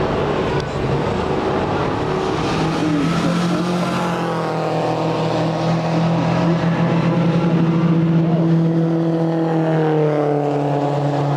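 V8 Supercars race cars' V8 engines running hard on track, a loud steady engine note that takes over a few seconds in, its pitch shifting a few seconds in and again near the end.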